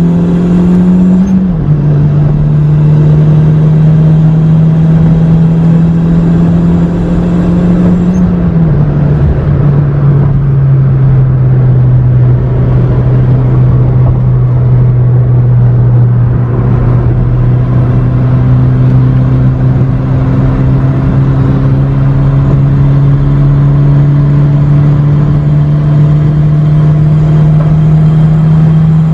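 Honda City's four-cylinder engine running at high revs at highway speed, heard from inside the cabin. The engine note drops slightly about a second in and more clearly about eight seconds in as the revs fall, then climbs slowly as the car picks up speed again.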